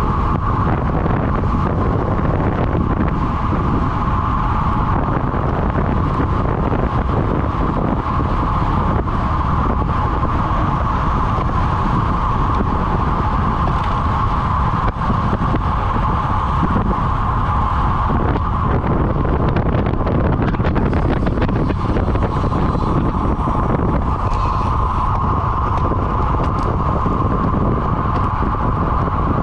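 Loud, steady wind buffeting the microphone of a camera riding along on a road bike at speed, with a constant rushing noise and no breaks.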